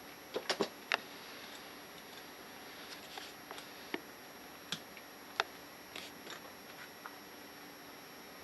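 Light clicks and taps of small scuba regulator first-stage parts being handled on a workbench during disassembly: a quick cluster of three or four about a second in, then scattered single clicks.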